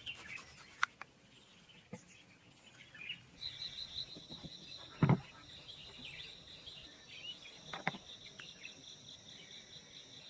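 Outdoor ambience: an insect starts a steady, high-pitched buzz about a third of the way in, over scattered bird chirps. A few sharp knocks cut through, the loudest about halfway.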